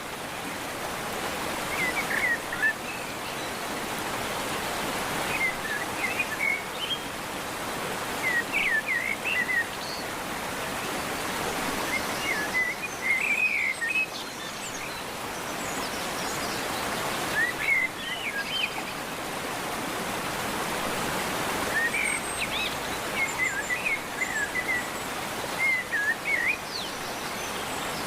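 Small birds chirping in short twittering phrases every couple of seconds over a steady rushing hiss.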